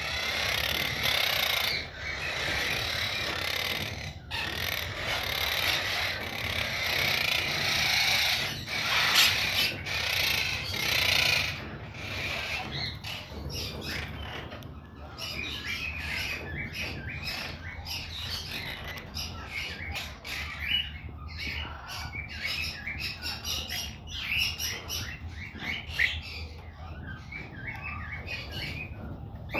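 Monk parakeet (quaker parrot) making noise: a dense, noisy stretch for about the first twelve seconds, then a long run of many short, high chirps.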